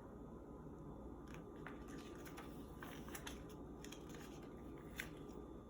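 Quiet room tone with a few faint, scattered clicks and one sharper click about five seconds in.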